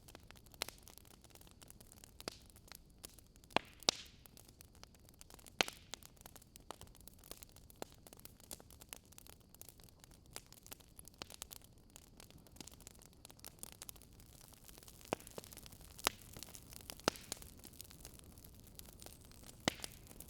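Wood fire crackling: a steady soft hiss with irregular sharp pops and snaps, a few of them louder.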